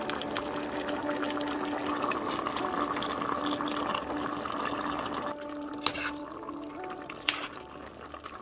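Coconut-milk chicken stew bubbling and simmering in a pot, with two sharp clicks near the end, about a second and a half apart.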